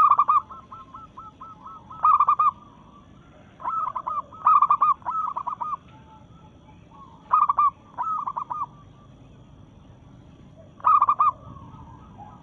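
Female local zebra dove (perkutut) calling, a call to draw males: short bursts of quick, staccato cooing notes, with fainter runs of notes between them. The loud bursts come at the start, about two seconds in, in a longer run around four to six seconds, again near eight seconds and once more about eleven seconds in.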